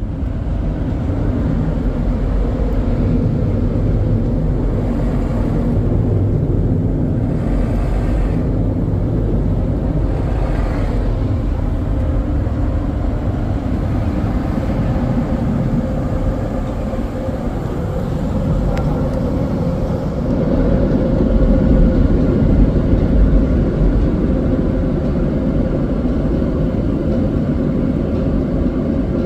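Automatic car wash air dryers blowing over the truck, a steady, heavy rush of air heard from inside the cab, swelling a little about two-thirds of the way through.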